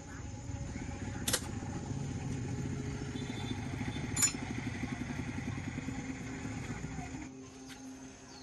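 A motor running with a fast, even pulse, then stopping about seven seconds in, with two sharp clicks along the way.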